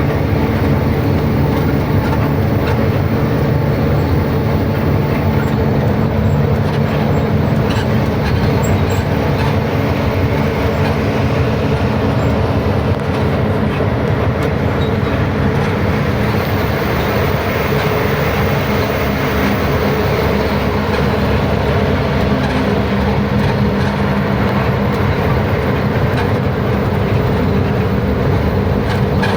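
Steady engine drone and road rumble of a truck on the move, holding an even level throughout.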